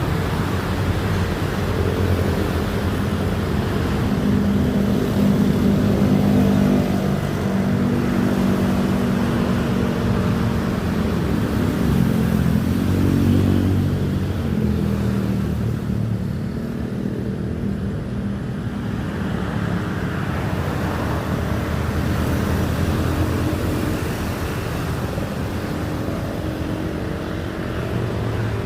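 Engine running steadily, a continuous rumble whose pitch drifts slowly up and down.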